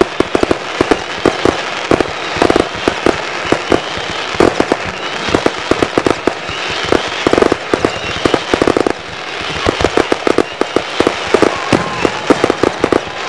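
Display fireworks going off in a dense barrage: many rapid sharp bangs and crackles, several per second, without a break.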